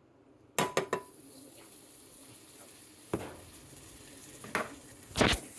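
Cookware knocking against a frying pan, with food sizzling in the hot pan from about half a second in. A few more sharp knocks follow, the loudest near the end.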